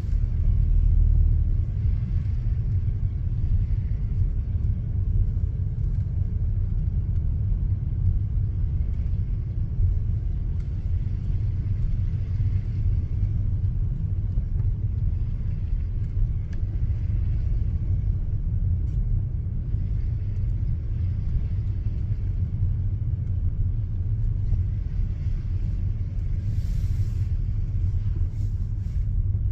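Car driving: a steady low rumble of engine and road noise, with a brief hiss near the end.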